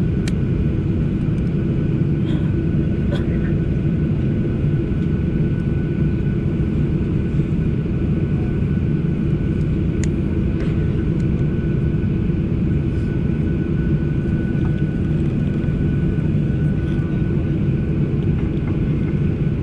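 Cabin noise inside a Boeing 737 on the ground: a steady low rumble and hiss from the running engines and air system, with a faint steady whine. There are no changes in power.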